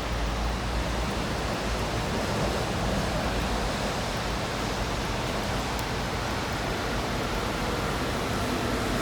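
Steady rain falling, an even, continuous hiss with no distinct drops or strokes.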